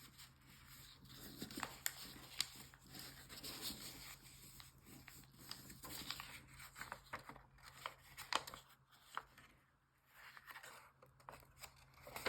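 Origami paper being folded and creased by hand: soft, irregular rustling and crinkling with scattered crisp clicks as creases are pressed.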